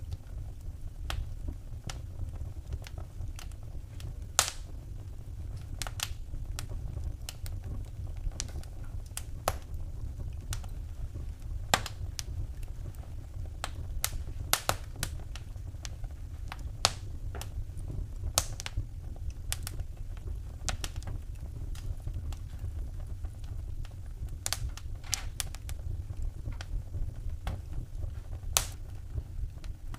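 Wood fire burning in a fireplace, crackling with irregular pops and snaps, a few of them louder, over a low steady rumble.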